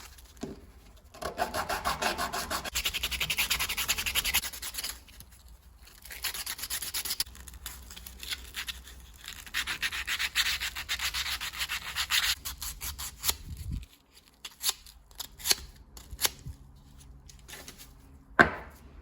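Brass being hand-sanded in quick back-and-forth strokes, in three spells. After that come scattered light clicks, and one sharp knock near the end.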